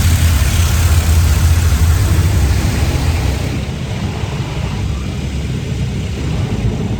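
Automatic car wash spraying water over the car, heard from inside the cabin: a steady low rumble under a hiss of spray. The hiss eases off about halfway through.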